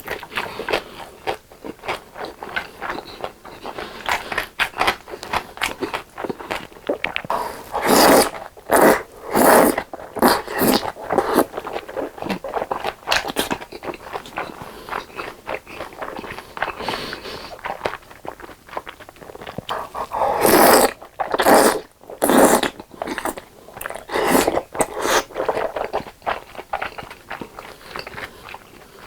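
Close-miked eating sounds: a person biting and chewing food with many short wet clicks, louder and busier about eight seconds in and again about twenty seconds in.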